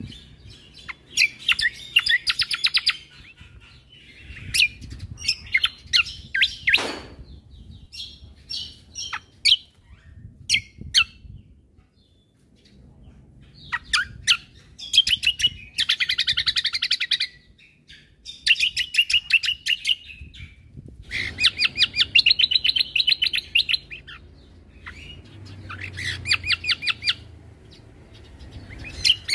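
Cucak kombo (kecial kombo) songbird singing in bursts of rapid, machine-gun-like trills of repeated high notes, each burst lasting one to two seconds with short pauses between. This is the 'tembakan' (shooting) song that bird keepers prize.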